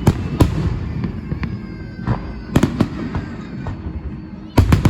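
Fireworks salute shells bursting: sharp bangs at irregular intervals over a continuous low rumble, with a quick cluster of three bangs near the end.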